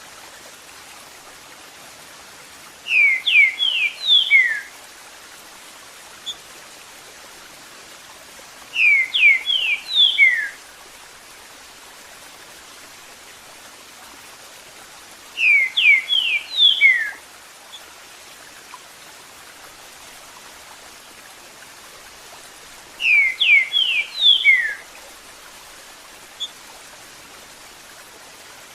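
Green-winged saltator (trinca-ferro) singing its "eu sou terrível" song four times, about every six to seven seconds. Each phrase is a quick run of loud slurred whistled notes, over a steady sound of running water.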